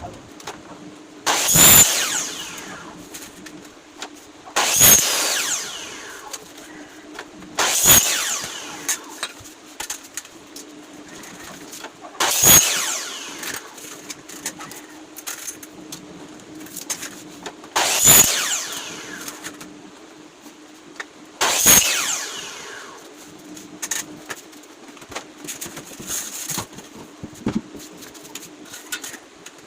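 A power tool fired in six short bursts a few seconds apart, each dying away with falling pitch as the motor winds down, over a steady low hum.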